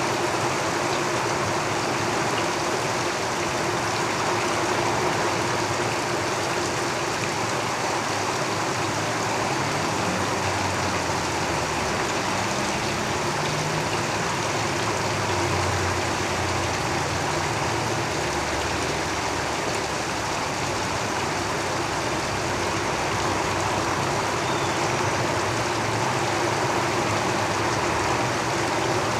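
Steady heavy rain drumming on a tin roof, an even unbroken hiss. A low rumble of passing road traffic comes up in the middle and fades again.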